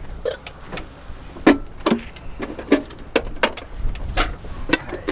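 Irregular metal clicks and clinks of seat-harness buckles and fittings being handled and fastened, with a few knocks against the seat.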